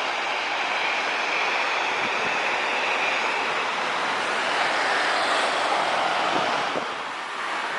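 Jet airliner's engines as it comes in to land, a steady rushing noise with a high whine that drifts lower in pitch. The sound drops a little near the end.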